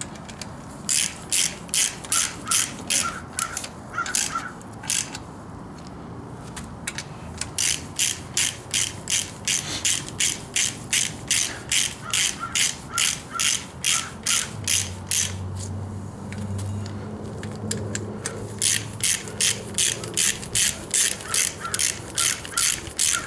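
Hand socket ratchet clicking in quick runs, about three clicks a second with short pauses, as it runs in the intake manifold bolts on a Ford 302 small-block V8 before torquing. A low hum joins for a few seconds in the middle.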